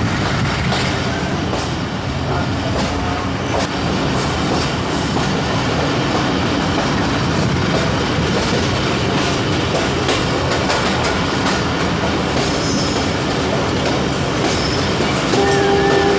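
Passenger train running along the track: a steady rumble and rattle of the wheels and carriages, with scattered clicks.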